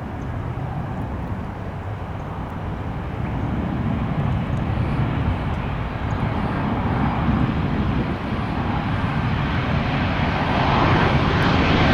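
Jet airliner's engines, a Boeing 737-800's CFM56 turbofans, with a steady roar that grows gradually louder as the aircraft approaches.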